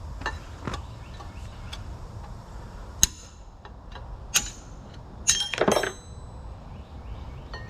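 Hammer striking a steel punch set against a stuck collar on a Tulsa winch shaft: three or four hard metal-on-metal blows with a bright ring, the first about three seconds in and a quick pair near the end, after a few light taps. The punch is worn round and slips around the collar instead of catching it.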